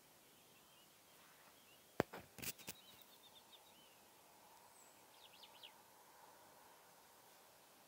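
Faint songbird calls: a short run of chirps about three seconds in and a quick trill of notes about five seconds in. A sharp click followed by a few knocks about two seconds in is the loudest sound.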